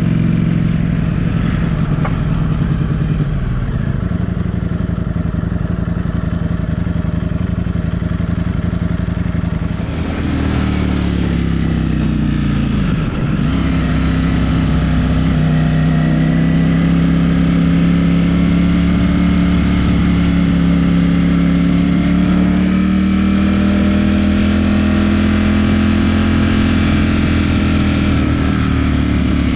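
Ducati motorcycle engine running steadily under way, with rushing wind noise. About ten seconds in, the engine note falls for a few seconds as the bike slows, then climbs back up and holds steady.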